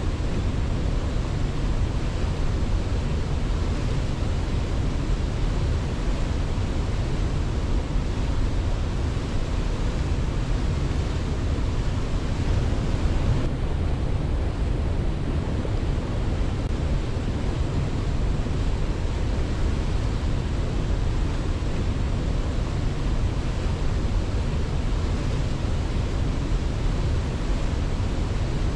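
Waterfall: a steady roar of falling water with an even level throughout, heavy in the low range. The hiss turns slightly duller about halfway through.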